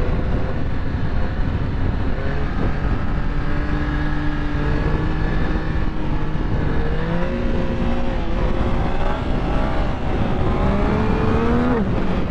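Yamaha MT-09 SP's inline-three engine running under the rider, its pitch holding steady, jumping up about seven seconds in, then climbing and dropping suddenly near the end as throttle and gears change. Steady wind rush underneath.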